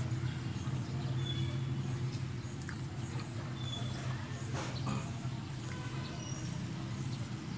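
Close-up eating sounds: chewing and lip-smacking as fish and rice are eaten by hand, as scattered short clicks over a steady low hum. A few brief bird chirps come through.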